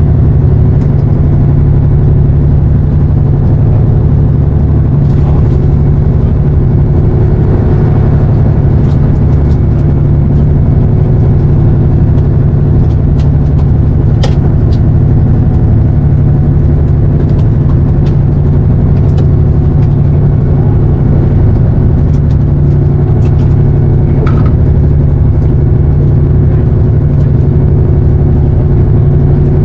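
A fishing boat's engine running at a steady pace, a constant low drone, with a few faint ticks over it.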